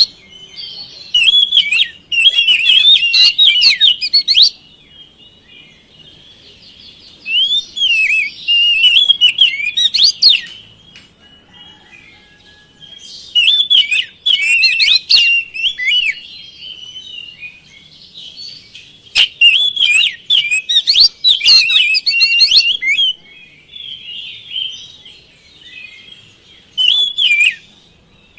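Oriental magpie-robin (kacer) singing: loud bursts of fast, varied whistled phrases a few seconds long, separated by quieter twittering. There are five main bursts, the last and shortest near the end.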